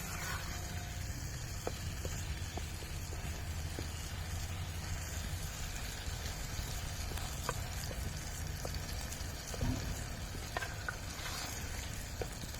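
Food sizzling over a campfire, with scattered small crackles and a steady low rumble underneath.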